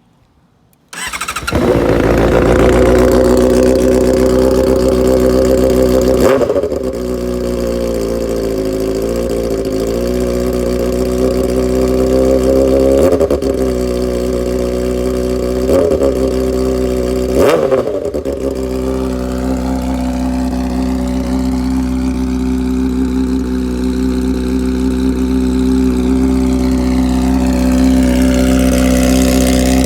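2010 Honda CBR600RR's inline-four starting up about a second in, through a straight-piped short side exhaust with no catalytic converter: very loud. It runs higher for the first few seconds, then settles into a steady idle, with a few short blips in the engine note.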